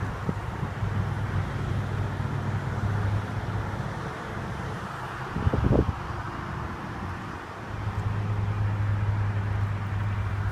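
Steady low hum with wind noise on the microphone, broken by one brief thump a little past halfway.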